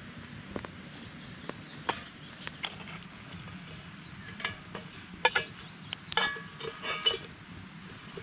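Metal camp cookware clinking and knocking: a scattered run of sharp clinks, several ringing briefly, busiest about two seconds in and again from about four and a half to seven seconds.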